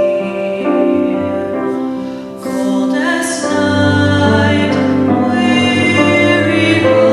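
Singing voices in a slow, sustained sacred Christmas piece with instrumental accompaniment, holding long notes.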